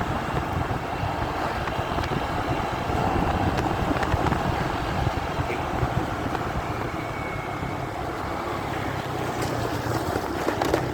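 Muffled, steady wind and road rumble of a motorcycle ride, recorded on a phone in the rider's pocket.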